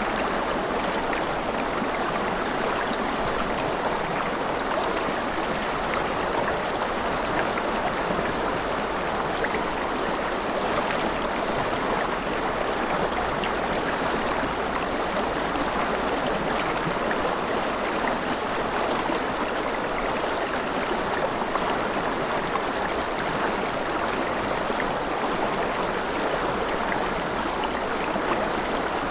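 River water splashing and gurgling steadily, a dense, even wash of sound with many small splashes.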